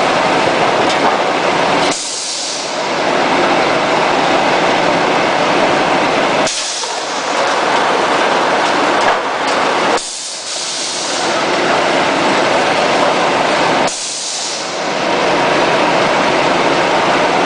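Longitudinal veneer slicer running through repeated slicing strokes: a steady loud machine noise that changes suddenly four times, each new stroke starting with a short sharp hiss, about every four seconds.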